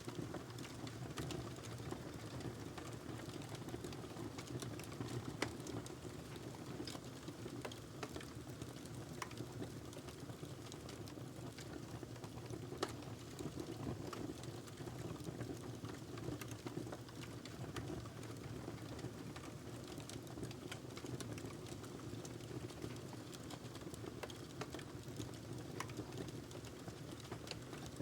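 Wood fire burning in a fireplace: a steady low rumble of flames with irregular sharp crackles and pops of the logs, a loud snap about five seconds in and another near thirteen seconds.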